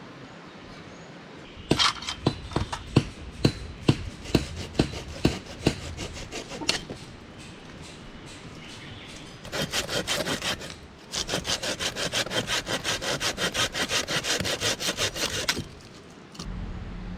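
Hand saw cutting through wood: slow, separate strokes at first, then a quicker, steady back-and-forth of about four to five strokes a second.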